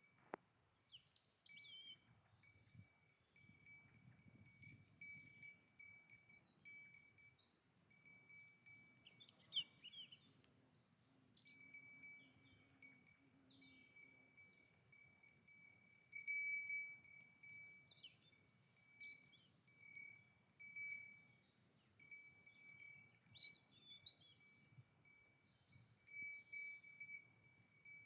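A grazing cow's neck bell ringing faintly, on and off, as she moves her head, each stretch a clear ringing tone with a higher overtone.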